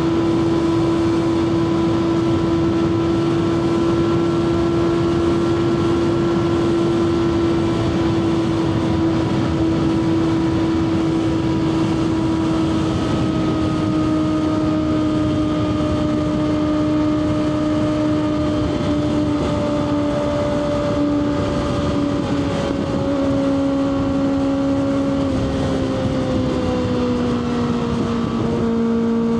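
Kawasaki ZX-6R 636's inline-four engine running at sustained high revs while riding at speed, its pitch holding steady and then easing slowly lower through the second half. A constant rush of wind noise runs underneath.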